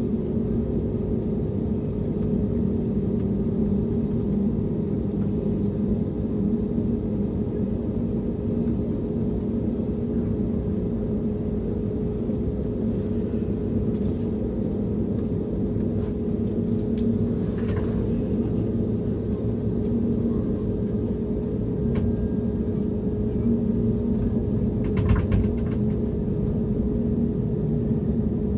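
Steady cabin drone of an Airbus A321neo in flight: engine and airflow rumble with a constant hum. A few faint clicks sound through it.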